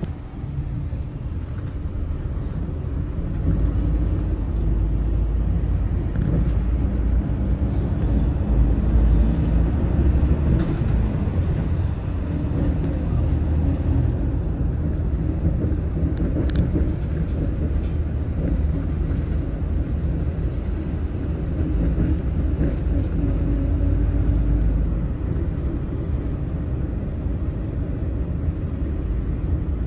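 Daewoo FX116 express coach's diesel engine and road noise under way: a steady low rumble with a hum of engine tones and a few light clicks about halfway through.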